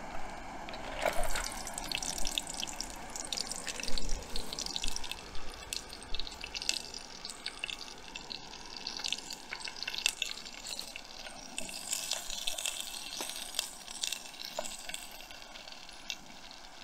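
Fajita ingredients sizzling and crackling in hot oil in a small camping pot on a canister gas stove. There are louder bursts about a second in and again about four seconds in as more food goes into the pan.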